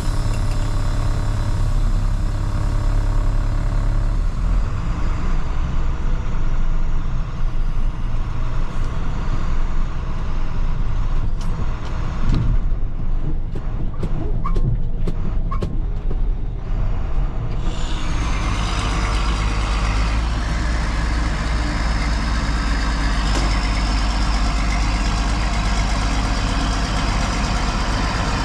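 Heavy diesel farm machinery running steadily, with a few sharp clicks in the middle. About 18 seconds in the sound grows fuller and hissier, with a faint falling whine.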